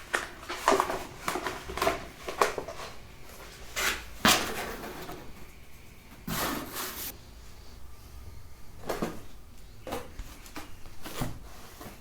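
Scattered light knocks and clicks of household objects being handled, with a short hissing or rustling burst about six seconds in.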